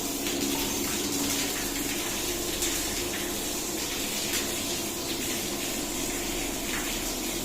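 Swimming pool filter pump running, with water rushing steadily through it and a low hum underneath.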